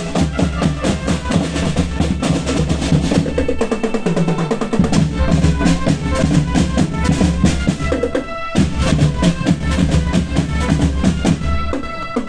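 Marching band playing: fast snare and drum-roll strokes over bass drums, with pitched melody lines above. The music breaks off briefly about eight and a half seconds in, then carries on.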